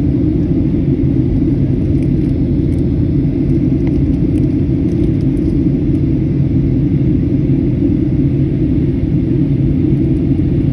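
Steady, loud rumble of a jet airliner heard inside the cabin: engine and airflow noise.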